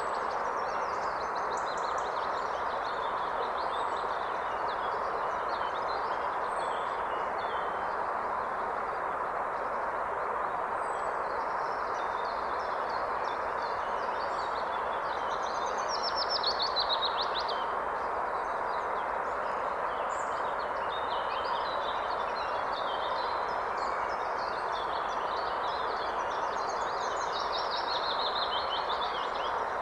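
Steady rush of flowing river water, with songbirds chirping and trilling over it throughout, one louder phrase about 16 seconds in.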